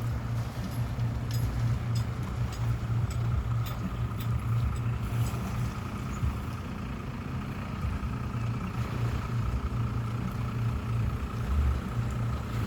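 Engine idling with a steady low rumble and a faint steady whine above it, with a few light ticks in the first few seconds.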